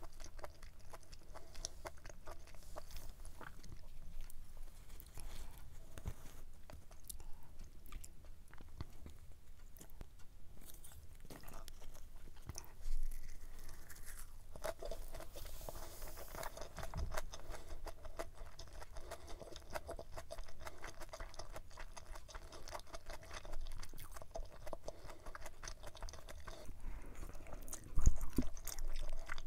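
Close-miked chewing and crunching of food: stir-fried pork intestines with vegetables, a leaf-wrapped bite and glass noodles, with many small wet clicks. There are two louder low thumps, one about halfway through and one near the end.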